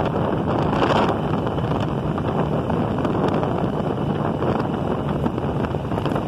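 Wind rushing over a mounted phone's microphone on a moving motorcycle, with the engine running steadily underneath.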